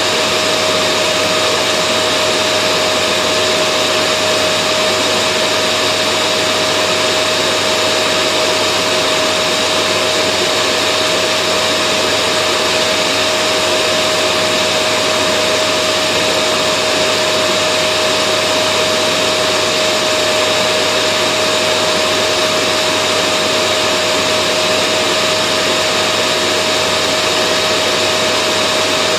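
Vacuum cleaner running steadily without change: a constant rush of air with a steady motor whine over it.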